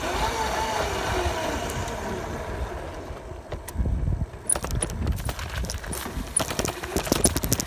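Motorcycle engine running, its note sagging over the first few seconds. It then drops under a rumble and a run of sharp knocks and rattles.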